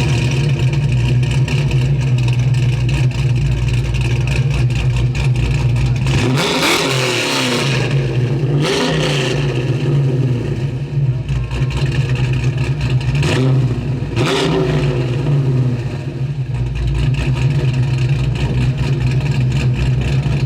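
1979 Camaro Z28's V8 engine idling with a steady low rumble and revved four times: a long rev about six seconds in, a short one near nine seconds, and two quick ones around thirteen and fourteen seconds.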